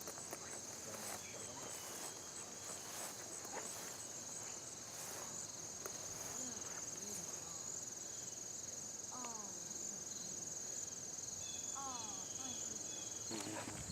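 Insects chirring in a steady, high, even drone, with a few short falling calls from chickens about two-thirds of the way in and again near the end.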